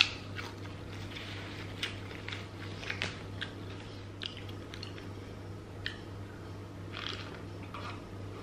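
A person biting and chewing crispy fried chicken close to the microphone, with scattered short crunches, over a steady low hum.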